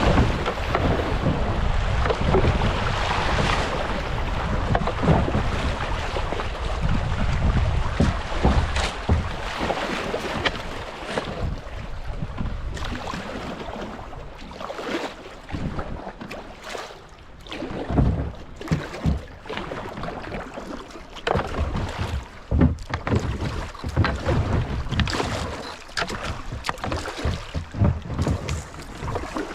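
Kayak going down a shallow creek: rushing water and wind buffeting the microphone for about the first twelve seconds, then quieter water broken by many short splashes and knocks of paddle strokes.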